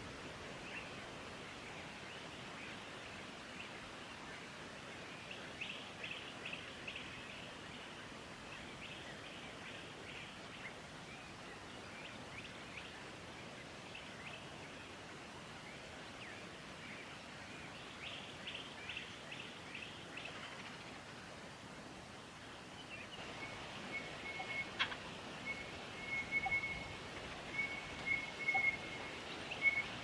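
Faint high bird calls at a Crested Bellbird nest: scattered clusters of quick thin chirps, then, from about two-thirds of the way in, a louder run of short notes repeated on one high pitch.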